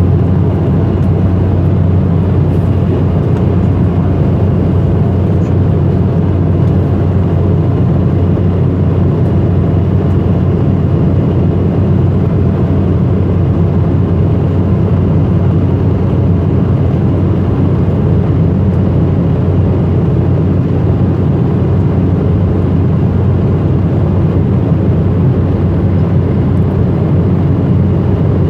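Steady cabin noise inside an Embraer ERJ-190 airliner in flight: the even drone of its GE CF34-10E turbofan engines and rushing airflow, with a strong low hum.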